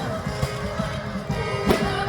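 Live orchestral music with sustained notes, and a single sharp firework bang near the end.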